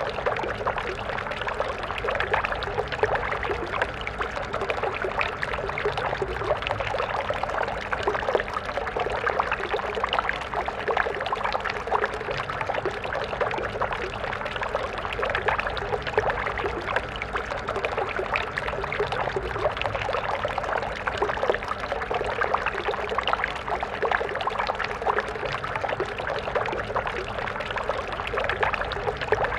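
Stream water flowing and splashing steadily, a continuous rushing babble.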